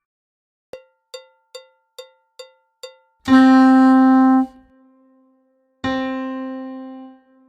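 Practice-track music: a count-in of six quick clicks, about two and a half a second, then a single held keyboard-like note, repeated once about two and a half seconds later and left to fade.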